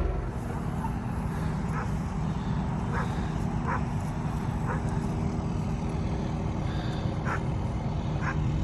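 A vehicle engine running steadily, with several short high squeaks or chirps on top.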